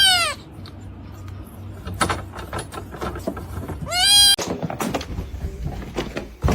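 A cat meowing twice, loudly: one call right at the start and another about four seconds in, each rising then falling in pitch. Rustling and small knocks fill the gap between.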